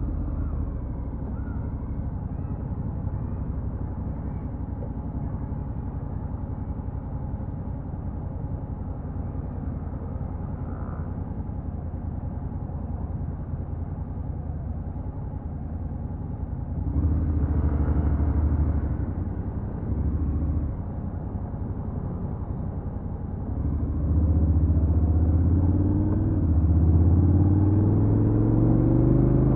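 Stock Honda NC750X's 745 cc parallel-twin engine running steadily at low revs, louder for a few seconds past the middle. In the last few seconds it rises in pitch as the bike accelerates.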